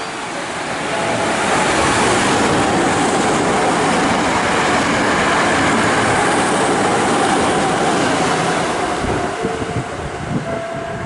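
Hankyu Kyoto Line electric train running through the station at speed without stopping: a loud rush of wheels on rail that builds over the first couple of seconds and holds. It eases off as the cars clear, with a few knocks near the end.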